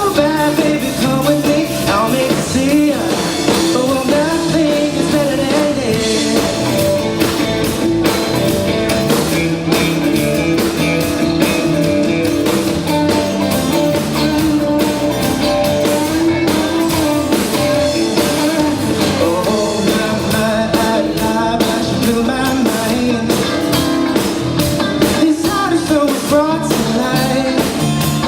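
Live pop-rock band playing a song with a lead vocalist singing over electric guitar, bass and drum kit, at a steady loud level.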